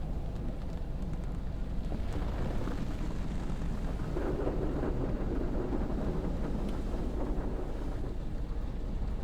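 Automatic car wash equipment running: a steady low rumble with a rushing, spray-like noise that swells about two seconds in, is loudest around the middle, then eases.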